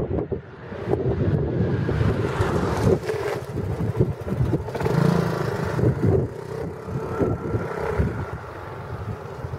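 Three-wheeler with a Yamaha Majesty C scooter engine running, its level rising and falling unevenly, with wind buffeting the microphone.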